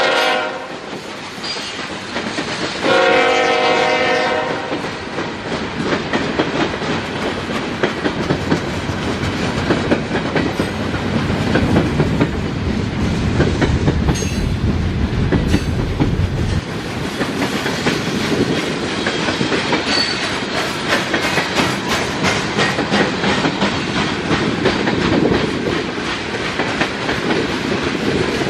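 Norfolk Southern train passing close by: a horn note trails off at the start and the locomotive horn sounds again about three seconds in for about a second and a half, then the cars roll by with a steady clickety-clack of wheels over rail joints.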